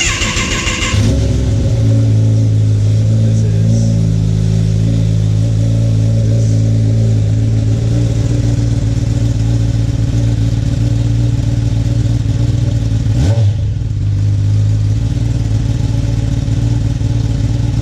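2019 Kawasaki ZX-10R inline-four on its stock exhaust, starting up and then idling steadily and loudly, with one quick blip of the throttle about thirteen seconds in.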